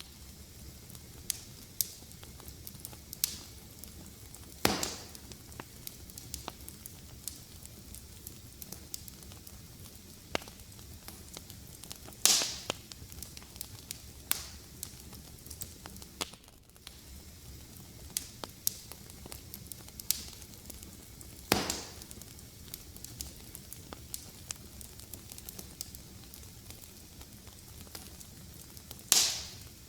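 Fireplace fire crackling: a steady scatter of small snaps, with a louder pop every several seconds that trails off in a short hiss.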